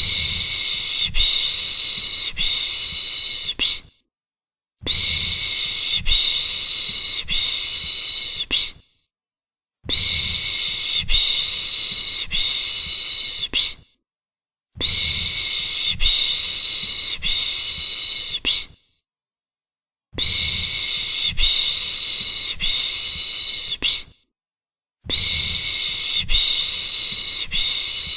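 A person shushing ('shhh', the Turkish 'piş piş') to soothe a baby: a long hissing shush of about four seconds, repeated six times with a short silent pause for breath between each.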